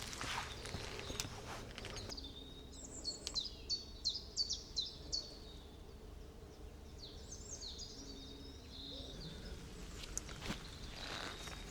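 A songbird sings two phrases of quick, high, sliding notes, the first about two seconds in and the second a few seconds later. Footsteps crunch on the forest floor at the start and again near the end.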